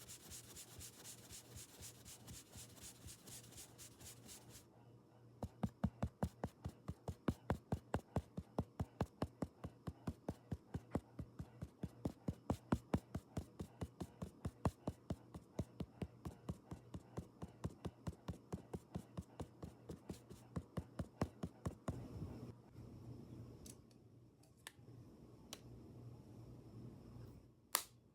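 Close-miked ASMR handling of makeup items. It opens with a few seconds of quick rhythmic rubbing or brushing. Then comes a long run of crisp, even tapping, about four taps a second, which gives way near the end to a few scattered clicks. A faint low hum runs underneath.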